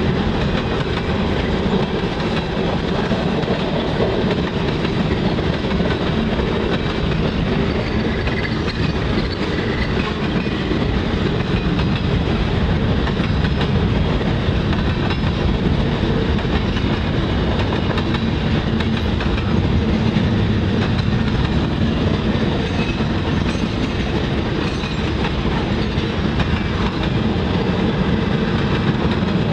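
Mixed freight cars of a CSX train (boxcars, tank cars, covered hoppers, centerbeam flatcars) rolling past close by, their steel wheels rumbling steadily on the rails at an even level.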